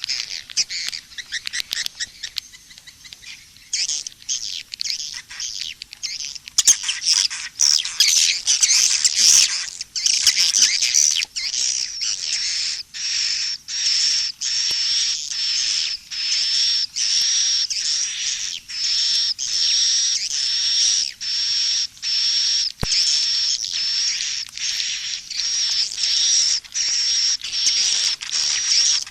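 Edible-nest swiftlet calls played as a mixed calling-sound lure track for a swiftlet house: a busy, overlapping high twittering in the first half, settling into a steady run of short high chirps a little over one a second.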